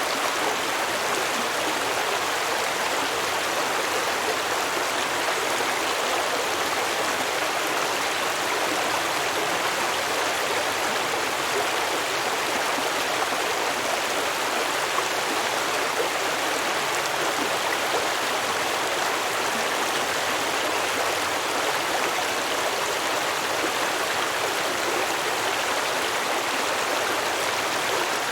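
Stream water running and babbling over rocks, a steady, even rush.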